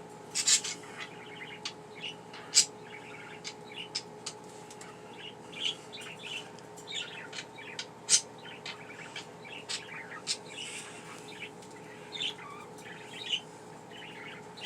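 Two pet budgerigars chattering to each other: a continual run of short, high chirps and squeaky calls, with a few much louder sharp chirps, over a faint steady hum.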